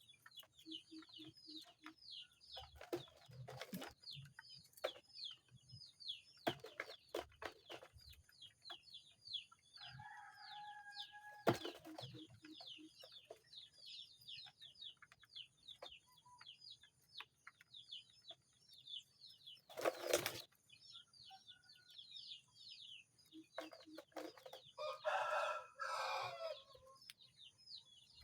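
Small birds chirping in a fast, continuous series of high, downward-sliding notes, with scattered knocks and clicks and a longer, louder call near the end.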